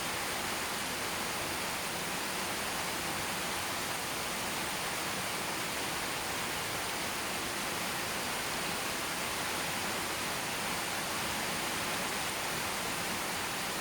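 Steady rain: an even, unbroken hiss, mostly high, with no single drops standing out.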